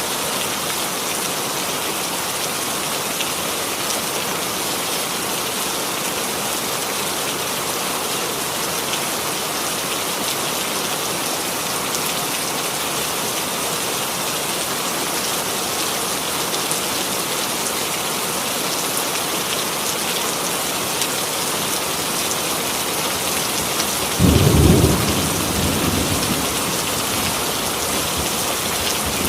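Steady rainfall, an even hiss of drops. Near the end a single thunderclap breaks in, loud and low, and rumbles off over a couple of seconds.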